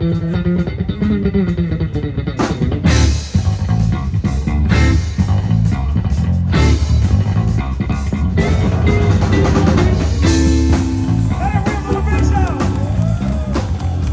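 Live electric blues band playing, with the electric bass and drums up front and guitar over them; near the end high notes bend and waver.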